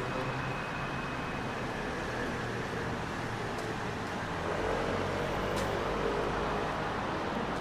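Steady hum and hiss of electric multiple-unit trains standing at the platform, their onboard equipment running, with a low drone and faint steady whines under the station roof.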